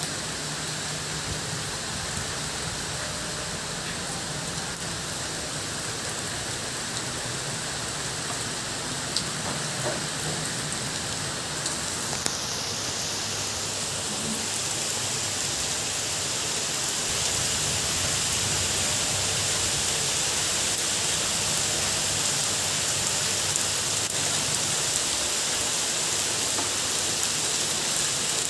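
Steady rain falling and pattering on surfaces, growing a little heavier about halfway through.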